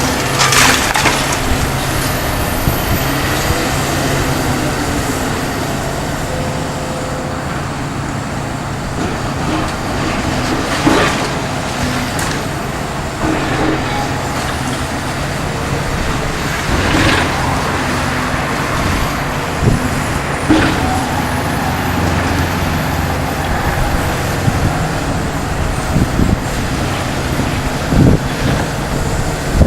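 Kobelco SK350LC-10 demolition excavator's diesel engine running steadily under load, with its hydraulics working. A few sharp knocks and crashes sound at intervals as the machine breaks up and drops demolition debris.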